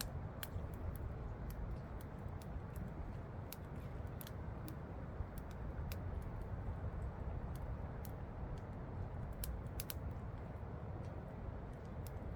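Wood campfire crackling, with irregular sharp pops and snaps, several close together near the end, over a steady low rush of falling water.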